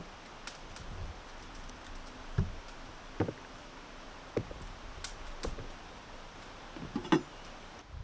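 Irregular light knocks and taps, about seven of them spread over several seconds, the loudest just after seven seconds in.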